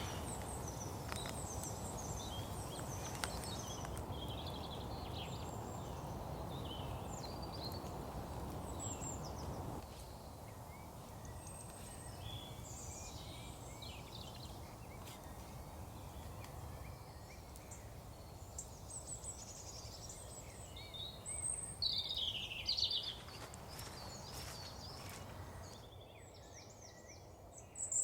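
Several songbirds singing, with many short chirps and trills scattered throughout and a few louder calls near the end. Beneath them runs a steady low rushing noise that drops away about ten seconds in.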